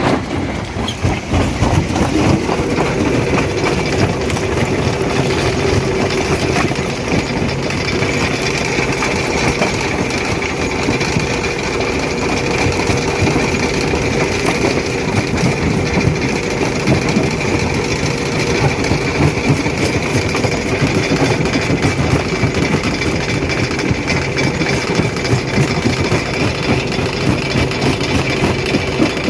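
Stone crusher running and crushing rock: a dense, continuous clatter and crackle of breaking stone over the machine's drive, with a steady whine setting in about two seconds in.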